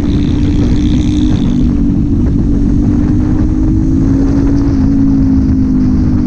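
Kawasaki Z400's 399 cc parallel-twin engine and exhaust running under way at a steady cruise. The engine note rises slightly about four seconds in, then eases.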